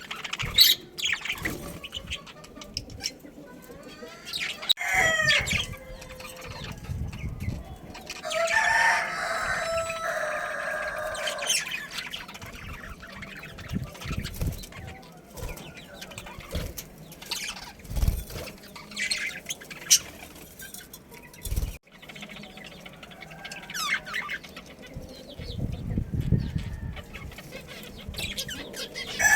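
A rooster crows once, a long call of about three seconds about eight seconds in, among chickens clucking and short scattered bird calls.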